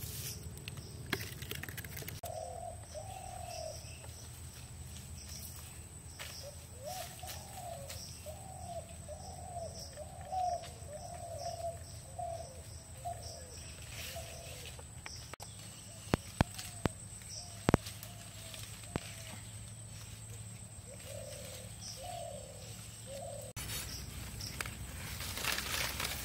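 A bird calling outdoors: a long series of short, rising-and-falling notes repeated about twice a second, in several bouts. A few sharp knocks sound about two-thirds of the way through.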